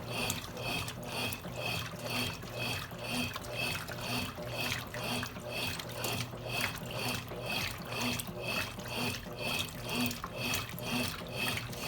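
Consul Cargo 8 kg top-loading washing machine agitating its load. Water sloshes back and forth in an even rhythm, about two swishes a second, over a steady motor hum.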